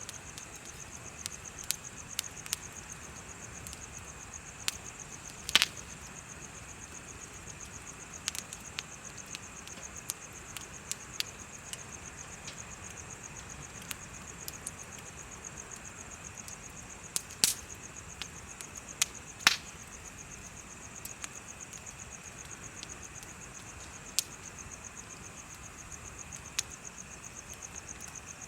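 Bonfire crackling with scattered sharp pops, a few of them much louder, over a steady, high, rapidly pulsing trill of insects.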